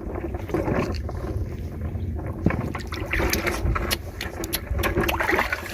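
Water sloshing and splashing in a shallow ditch, with scattered clicks over a steady low rumble.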